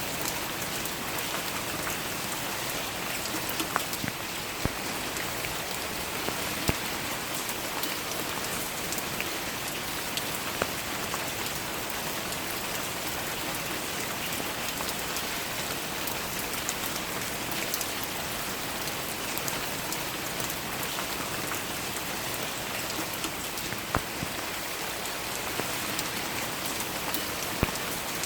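Steady rain falling on a surface, an even hiss with scattered louder single drops ticking close by.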